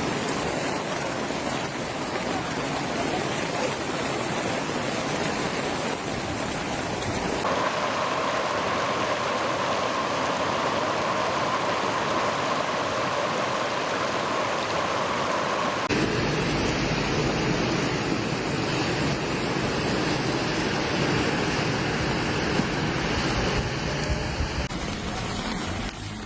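Steady rushing noise of floodwater and heavy rain, changing abruptly twice as one clip cuts to the next.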